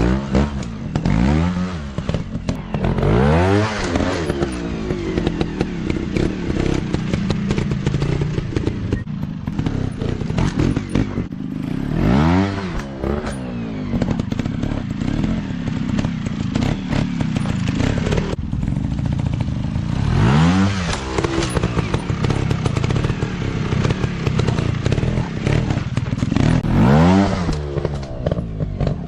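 Dirt bike engines running, repeatedly revving up sharply and dropping back in short throttle blips between stretches of steadier running.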